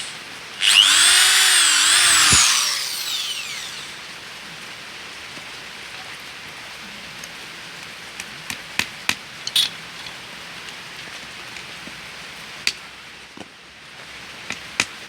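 Small electric hand drill running for about two seconds, its pitch dipping and rising as it bores, then running down. A few light clicks and taps follow later.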